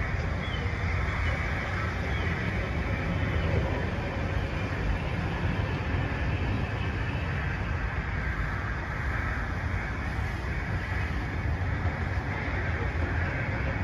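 Passenger coaches of a train running through a station, close by: a steady rumble of wheels on rails with a rush of air, even throughout.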